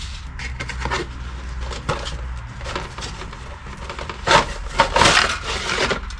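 Hands handling a cardboard model kit box: rubbing and scraping, with a louder stretch of rustling and knocks about four to five seconds in.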